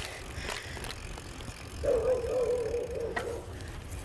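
Riding a bicycle: steady low rumble of wind and tyres with a few sharp rattles and clicks. About halfway through, a wavering mid-pitched tone lasts for about a second and a half.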